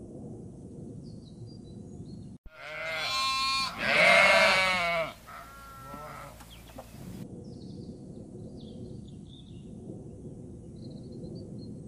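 Sheep bleating: three wavering bleats in the middle, the second the loudest. Before and after, there is steady outdoor background noise with faint high chirps.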